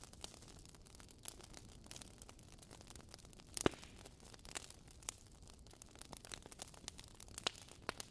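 Fireplace fire crackling: scattered, irregular sharp pops over a faint hiss, with one louder pop about three and a half seconds in.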